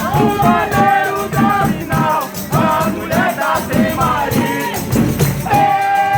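Folia de Reis troupe singing a verse together in held notes, with shaken percussion keeping a steady beat.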